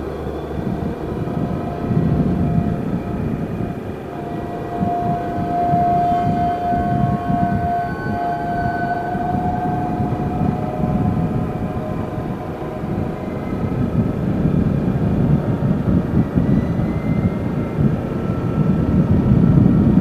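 Yamaha Jupiter Z underbone motorcycle running steadily on the move, with wind buffeting the microphone. A steady whine stands out for a few seconds in the middle.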